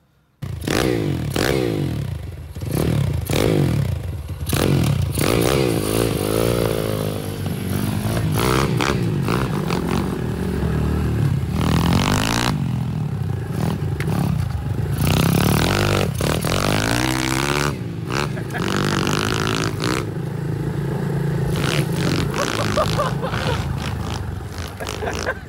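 Pit bike engine running and revving, its pitch rising and falling over and over as the throttle is worked. There is some scraping and clatter alongside.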